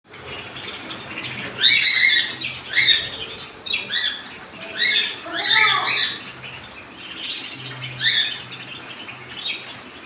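Birds chirping in short, sharp calls every second or so, some overlapping, over a faint low hum.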